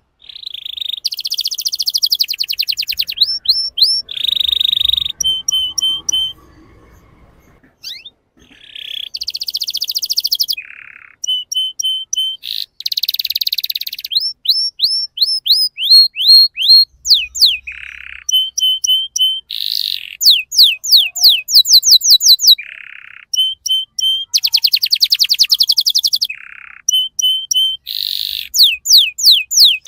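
Canary singing a long, loud song of rapid trills and runs of quick falling notes, phrase after phrase with short breaks. There is a quieter gap of about two seconds a fifth of the way in.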